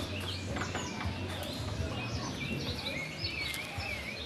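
Several birds chirping and calling outdoors, with one bird's wavering, warbled song near the end.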